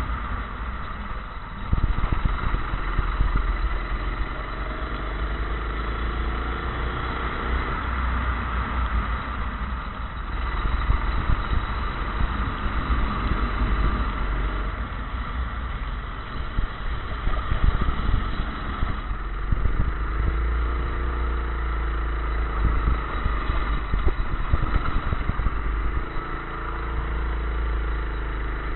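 Kart engine running, its pitch rising and falling again and again as it accelerates out of corners and slows into them, over a heavy low rumble.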